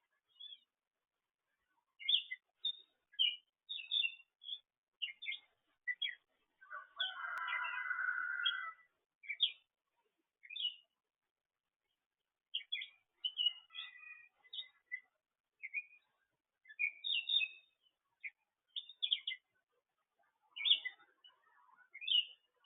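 Birds chirping in many short, high calls with gaps between them, and one longer, lower call about seven seconds in.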